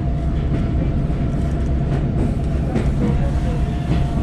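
Passenger train coach rolling along the track, heard from on board: a steady low rumble with a constant hum over it.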